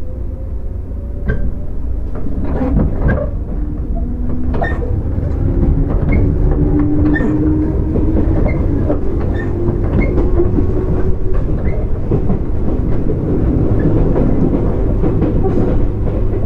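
JR 205 series electric train running, its traction motors giving a faint hum that slowly rises in pitch as the train picks up speed. Over a steady rumble, the wheels clack over rail joints roughly once a second.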